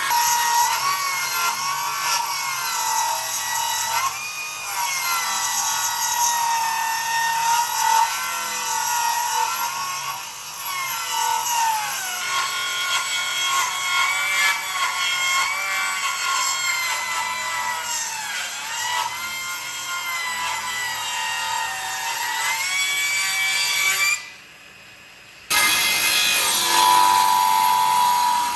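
Electric power tool working wood: a motor whine that sags and recovers again and again as the tool bites under load, over a rough abrasive hiss. It drops away for a moment about three-quarters of the way through, then resumes.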